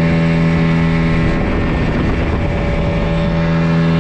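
Motorboat engine running at a steady, constant speed during a ride on the lake, a loud even drone over a rush of wind and water noise.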